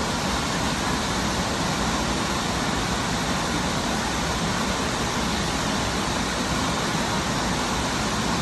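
Steady rushing roar of Burney Falls, a tall spring-fed waterfall, pouring into its plunge pool.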